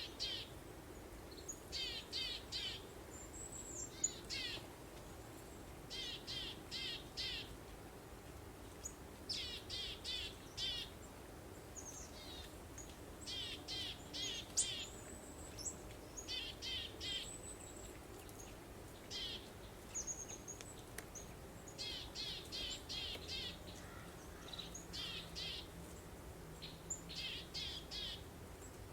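Songbirds singing in short, repeated phrases of three to five quick descending chirps every few seconds, with an occasional thin higher whistle, over a soft steady breeze.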